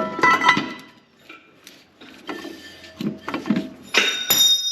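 Metal drum-brake hardware and tools clanking and clinking. A sharp knock comes at the start, and about four seconds in a loud metallic clatter rings on, as a part falls out of the brake assembly.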